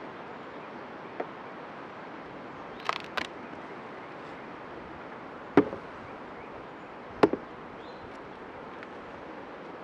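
Wooden beehive parts knocking and clicking as the hive is worked open: a quick double click about three seconds in, then two sharper knocks later on, over a steady hiss.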